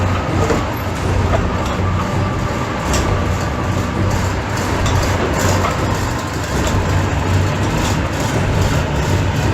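Tank engine running steadily: a continuous low hum with faint scattered clicks.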